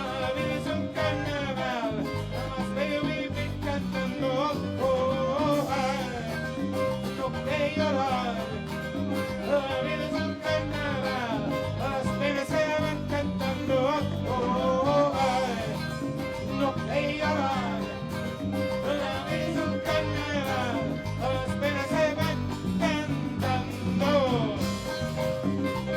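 A live band plays an instrumental passage of a salsa song: a melody line glides up and down over a steady, repeating bass rhythm.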